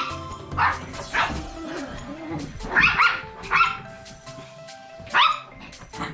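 Toy poodle barking in play during a rope tug-of-war: about five short, high yaps, each sweeping up in pitch.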